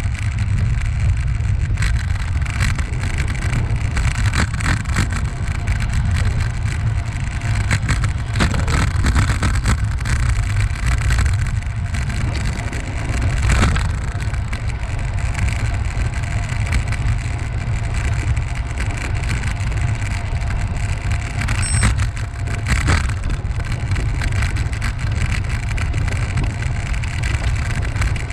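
Steady wind rumble on the microphone of a moving rider, with scattered light clicks and rattles.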